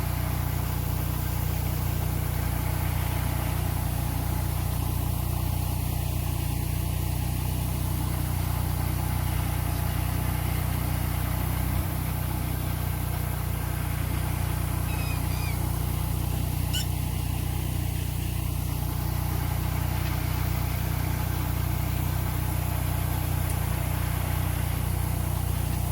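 VST VT 180D-HS compact tractor's diesel engine running steadily at an even speed, with no revving.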